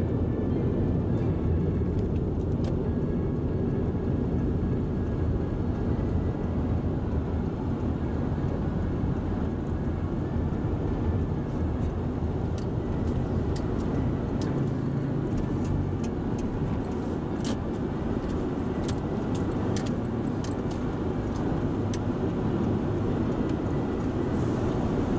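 Steady low rumble of a car, with scattered light metallic clicks and jingles, more of them in the second half.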